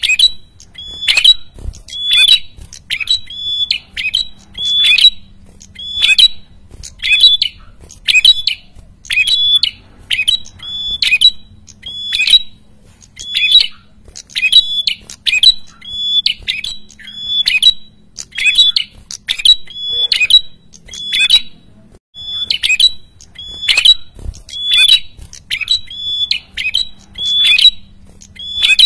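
A prenjak kepala merah calling loudly and persistently: sharp, high chattering notes repeated about once a second, often in quick pairs.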